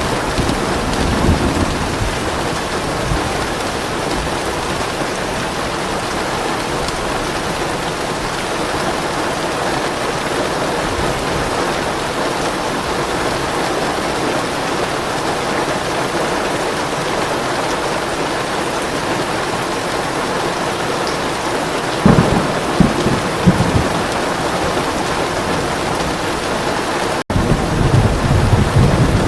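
Steady rain pouring, with soft rolls of thunder: a low rumble at the start, a stronger peal with a few sharp cracks a little past two-thirds of the way through, and another rumble near the end. The sound cuts out for an instant shortly before that last rumble.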